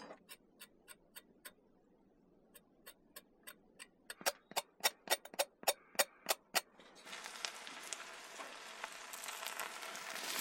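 Steady clock-like ticking, about three or four ticks a second, with a short pause about a second and a half in. From about seven seconds in, food starts sizzling in a hot pan, growing louder.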